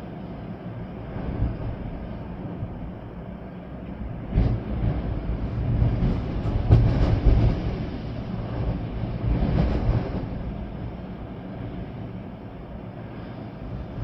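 Storm-force wind gusting through trees with rain. The sound is a deep rushing noise that surges about four seconds in, is strongest around the middle, and eases off again by about ten seconds.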